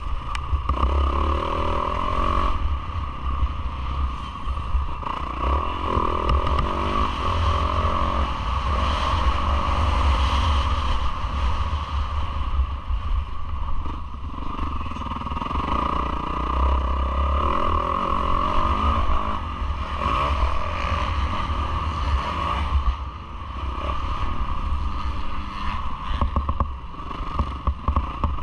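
Yamaha YZ450F four-stroke single-cylinder motocross engine heard from an onboard camera during a race, its revs rising and falling again and again through gear changes and throttle on and off.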